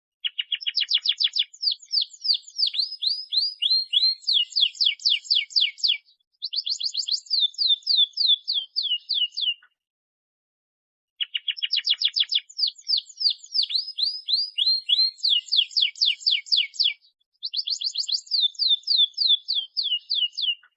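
Domestic canary singing fast trilled song phrases of quick, rapidly repeated downward-sweeping notes. The same roughly ten-second song plays twice, separated by about a second and a half of silence.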